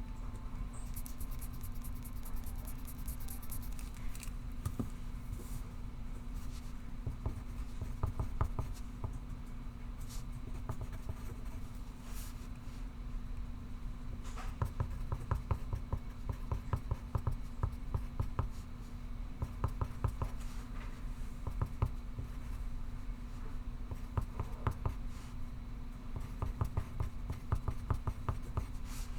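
Pencil writing on paper, scratching in runs of quick short strokes that come and go, over a steady low hum of room tone. A brief run of fast, high ticks sounds about a second in.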